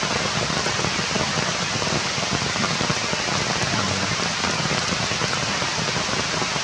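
Steady rain falling on forest leaves, an even hiss of drops.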